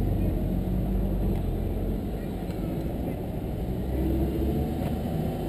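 Lamborghini Gallardo LP560-4 Spyder's V10 engine running low and steady as the car rolls out slowly, heard from the open-top cabin.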